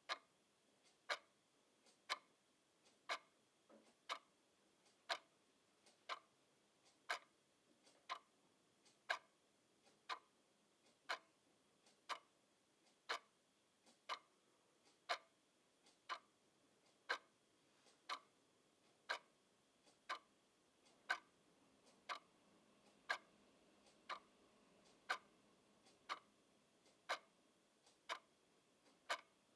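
Clock ticking steadily, about two ticks a second, alternating louder and softer: tick-tock.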